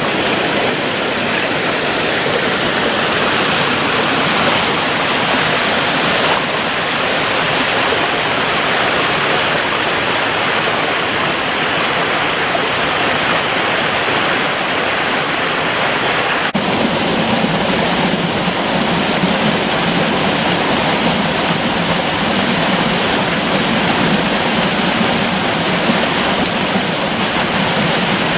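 Creek water rushing and splashing steadily, a dense even flow; about two-thirds of the way through, the sound becomes a little fuller and deeper.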